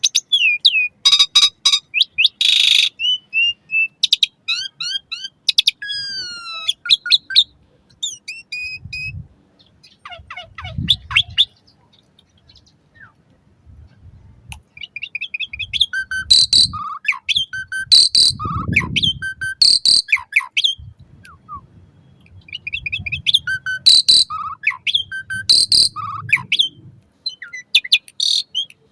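Black-collared starling (jalak suren) singing a loud, varied song of rapid whistled notes, sweeping slurs and harsh rasping calls. The song comes in bursts, with a pause of a few seconds in the middle.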